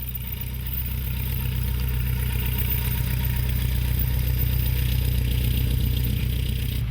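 Piston engine of a small single-engine airplane running with a steady drone, slowly getting louder.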